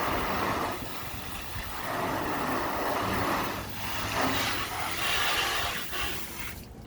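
Hand car washing: a rushing, hissing noise that swells and fades every second or two, then stops just before the end.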